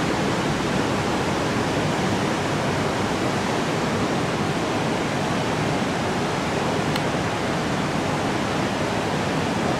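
Steady rushing noise of wind and ocean surf, even throughout, with a faint click about seven seconds in.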